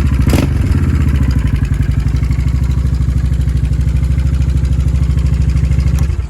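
Honda Shadow Spirit VT750C2's 745 cc V-twin idling with an even, steady pulse as it warms up after a cold start, then switched off near the end.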